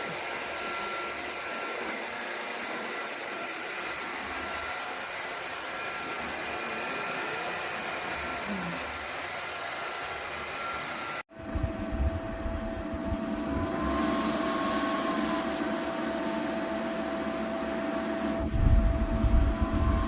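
Cordless wet/dry floor vacuum-mop running with a steady whine. About halfway through, a cut switches to a louder, lower running sound whose pitch slowly rises and falls, with a few low thumps near the end.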